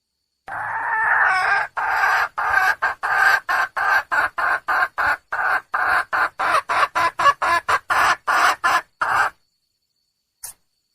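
Junglefowl hen calling to attract a rooster: one drawn-out opening call, then a fast, even run of short clucking calls, about three a second, that stops abruptly about nine seconds in. A faint click follows near the end.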